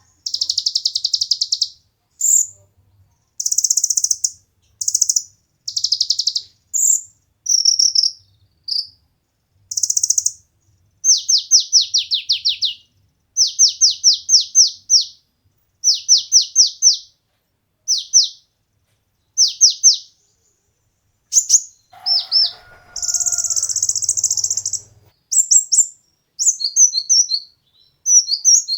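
Kolibri ninja (sunbird) singing, high-pitched: short buzzy phrases, then quick runs of five or six falling notes repeated many times, and a longer buzzy phrase near the end.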